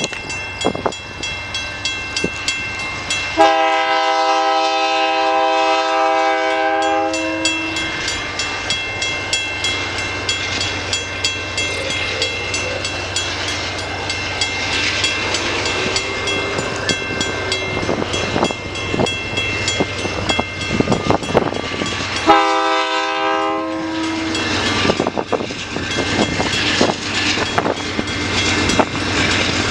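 Freight train rolling on the rails with irregular wheel clicks and rumble, and a diesel locomotive horn sounding twice: one long blast a few seconds in and a shorter blast near the end.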